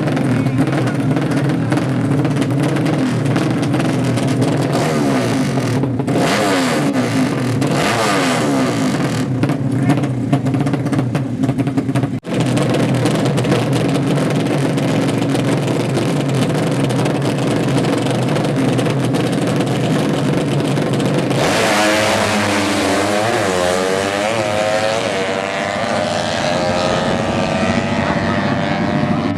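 Four-stroke 200cc drag bike engines running steadily. About two-thirds of the way through, one launches hard, and its engine pitch climbs in several steps as it accelerates through the gears.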